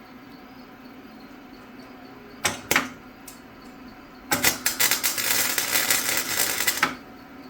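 Flux-core wire welding arc on a Firepower FP120 welder crackling: two short crackles as the arc is struck, then a steady sputtering crackle for about two and a half seconds, ending suddenly.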